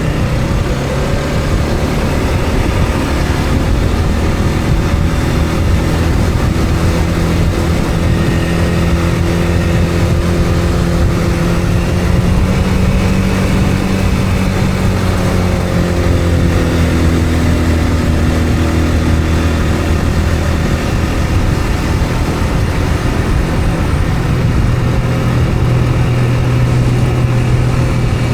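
Motor vehicle engine running while driving, a steady hum with road noise; its pitch rises a little about halfway through, drops back, and shifts again near the end as the speed changes.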